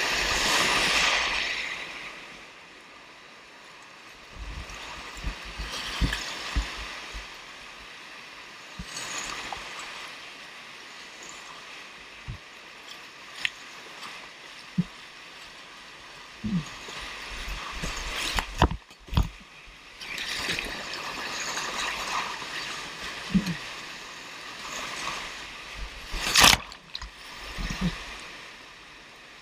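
Whitewater rushing and splashing, swelling louder in surges, with a few sharp knocks, the loudest near the end.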